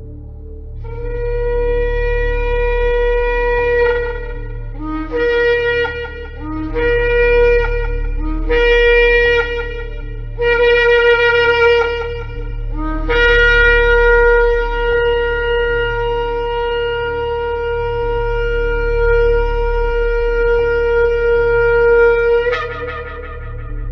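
Shofar blown in a series of calls: a long blast, then four shorter blasts each rising from a lower note to the main pitch, then a long held blast of about nine seconds that ends with a sharp upward leap in pitch. A steady low hum lies underneath.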